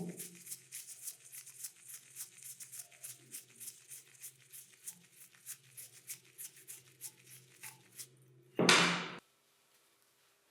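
Fast, even, faint ticking, about four a second, from hand tools working on the concrete vibrator's metal parts; it stops after about eight seconds and is followed by one loud knock.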